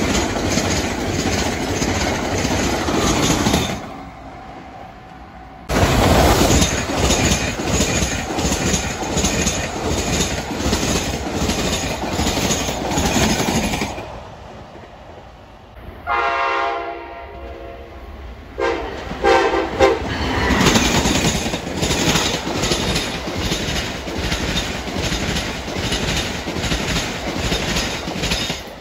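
Electric passenger trains passing at speed, a steady rush of wheel and rail noise that drops away sharply twice. About sixteen seconds in, a train horn sounds one long blast followed by two short ones, before the passing noise builds again.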